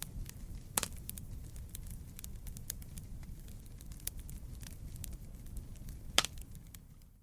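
Wood campfire burning: a low rumble under many small crackles, with two louder pops, about a second in and near the end, before the sound fades out.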